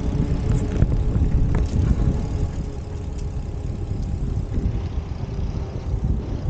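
Wind buffeting the microphone of a camera riding along on a bicycle, a heavy fluctuating rumble, with a few small clicks and rattles from riding over the path.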